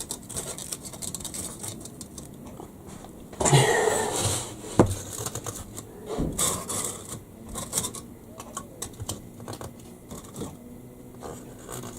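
Model railway set-track pieces being handled and fitted together: scattered small clicks and rattles, with a short burst of scraping about three and a half seconds in and a sharp click just after.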